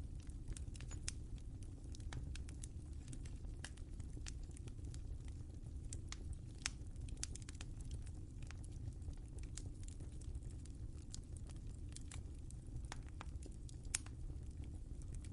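Wood fire crackling in a fireplace: irregular sharp pops and snaps over a steady low rumble of flame, with one louder pop near the end.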